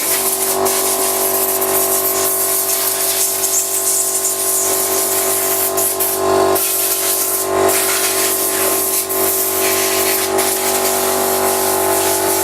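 Stabilo 200/8/24 oil-lubricated air compressor starting up and running steadily with an even motor-and-pump drone, refilling its tank after air has been drawn off. Short bursts of air hiss from a blow gun come in over it twice, a little past the middle.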